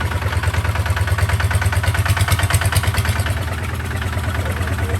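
Kubota tractor's diesel engine running steadily with a rapid, even firing beat. It eases off slightly for about a second near the end, then picks back up.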